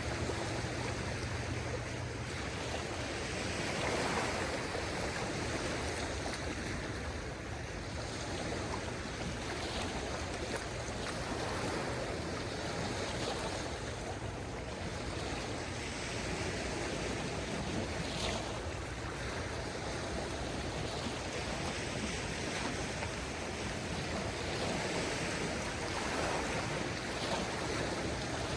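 Small waves of a calm sea washing in steadily, swelling gently every few seconds.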